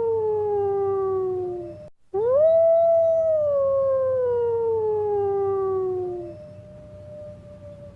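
Wolf howling: one long howl slides down in pitch and breaks off about two seconds in, then a second howl rises quickly and glides slowly down, followed by a fainter, level note near the end.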